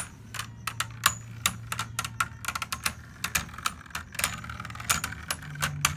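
Beyblade Burst spinning tops colliding in a plastic stadium, a fast irregular clatter of sharp clicks and knocks over a low hum that steps up in pitch near the end.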